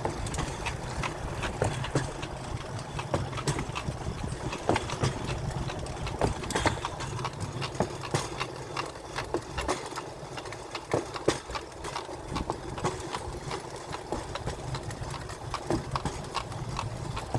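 Pedal-powered rail bike rolling along railroad track: its wheels keep up a steady low rumble on the rails, with frequent irregular clicks and clacks.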